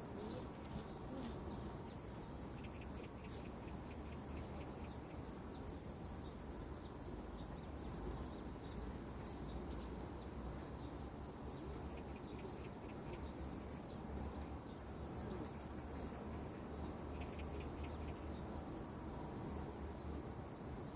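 Birds chirping at dawn in a series of short, quick-repeated calls, with a steady high insect-like trill. A steady low rumble runs underneath.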